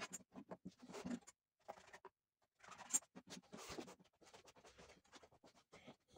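Faint, irregular short scratching and rubbing strokes, with one sharper tick about three seconds in.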